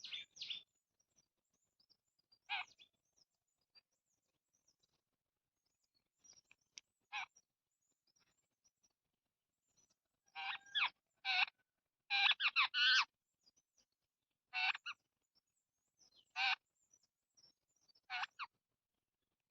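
Birds calling: short, harsh, pitched calls every couple of seconds with quiet gaps between, and a quick run of several calls about two-thirds of the way through.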